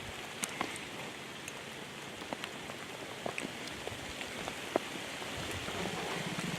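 Heavy rain pouring down, a steady hiss with scattered sharp taps of individual drops striking close by.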